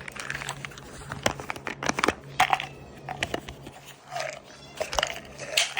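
Irregular small clicks and crackles of pills being handled, taken from their container and dropped into the horses' feed buckets, over a steady low hum.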